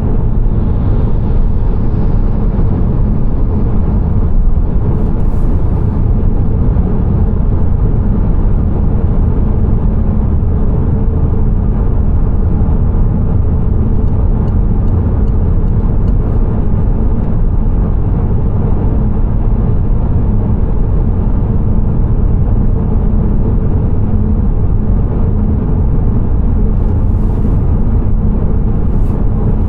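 A car driving at steady speed: an even, low drone of engine and tyre noise.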